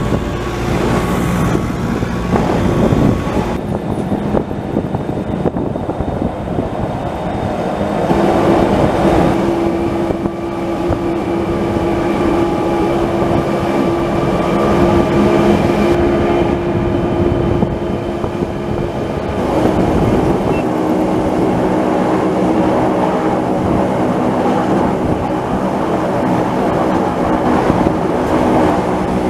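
Wengernalp Railway rack-railway train running uphill, heard from aboard: a steady rumble of wheels on rail with the hum and whine of the drive. The whine is stronger for about ten seconds from near the first third.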